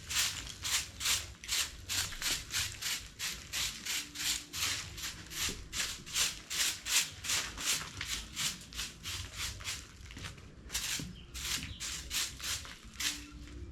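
Rhythmic brushing strokes during cleaning, about three a second, with a short break about three-quarters of the way through.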